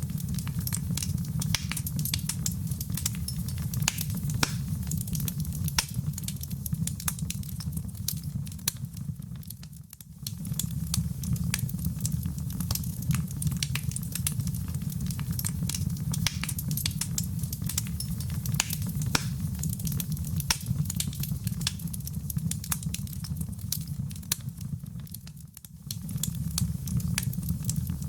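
Fireplace wood fire crackling, with many sharp snaps over a steady low rumble. The loudness dips briefly twice, about ten seconds in and again near the end.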